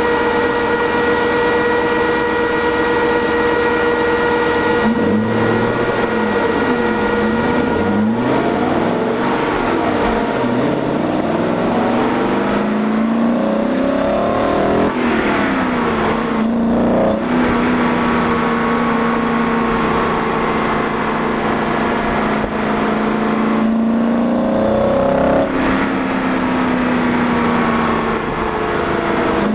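BMW M60 V8 swapped into a BMW E30, heard at its air intake while driving. It holds a steady note for the first few seconds, then revs up and down repeatedly as the car accelerates and shifts. A longer steady stretch follows, then one more climb and drop near the end.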